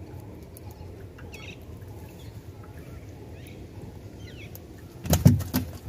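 Faint short bird chirps every second or so over a low steady outdoor rumble, with light clicks. About five seconds in, a sudden loud burst of noise takes over.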